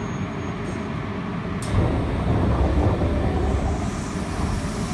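Interior running noise of an Osaka Metro 80 series linear-motor subway train: a steady low rumble of wheels on track, with a sharp click about a second and a half in, after which the rumble grows louder.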